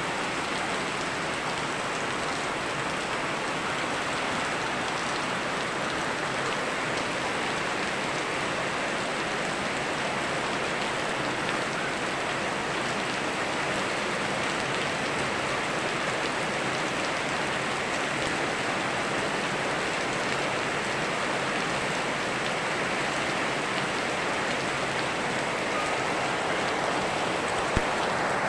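Steady rain falling together with a flowing river, an even unbroken rush. One short sharp tick stands out near the end.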